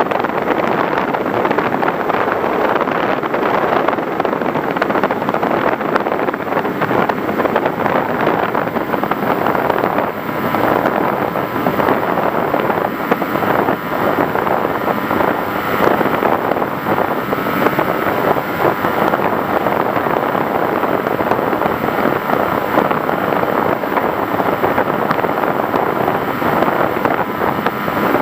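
FPV Raptor model plane in flight: a steady rush of wind with its motor and propeller running, and a faint steady whine from about ten seconds in.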